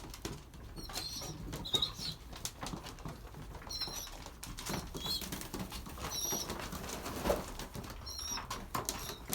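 Young racing pigeons, about a month old, pecking and shuffling at feeding trays, with short high-pitched peeps every second or two.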